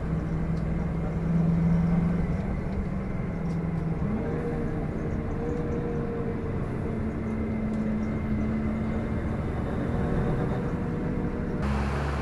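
Bus engine running under way with steady road noise, its pitch stepping up about four seconds in as it accelerates.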